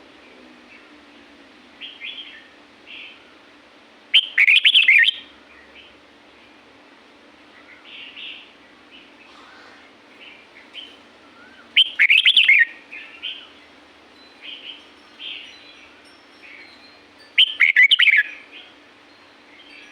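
Red-whiskered bulbul singing: three loud, short warbled phrases about six to seven seconds apart, with softer chirps between them, over a faint steady hum.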